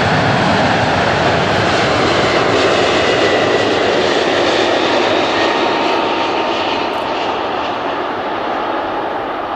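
Engines of an airliner passing close by: a loud, steady roar with a faint whine above it, slowly fading in the last few seconds as the aircraft moves away.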